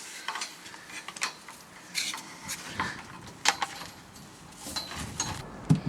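Scattered light clicks and knocks of things being handled, a few a second apart, with no steady sound between them.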